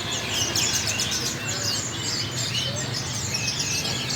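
Many caged birds chirping at once, a dense overlapping chorus of short high calls, over a steady low hum.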